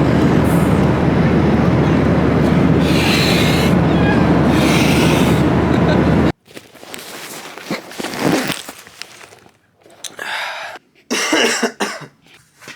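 Steady drone of an airliner cabin in flight, with two harsh coughs about three and four and a half seconds in. The drone cuts off abruptly after about six seconds, leaving a quiet room with a few short, scattered sounds.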